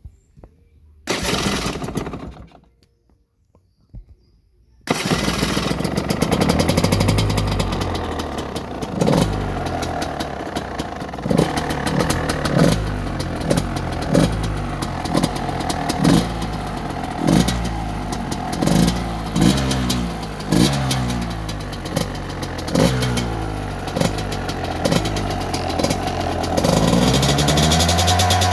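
Gas Gas 200cc two-stroke enduro engine started on its adapted electric starter: a brief burst of cranking about a second in, then about five seconds in it fires and runs, blipped up and down over and over, settling to a steady idle near the end.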